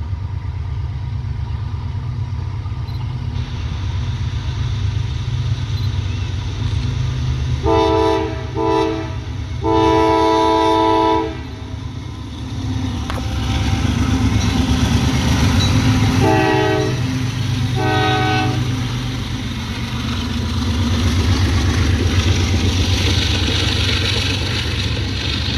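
A slow-moving train rumbling steadily past as its locomotive horn sounds a multi-note chord in five blasts: two short ones and a long one about eight to eleven seconds in, then two more short ones about sixteen and eighteen seconds in.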